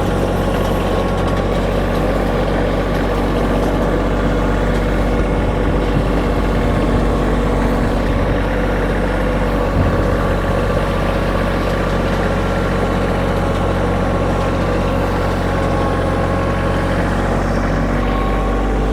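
Kioti tractor's diesel engine running steadily while it pulls a weighted drag over a gravel driveway.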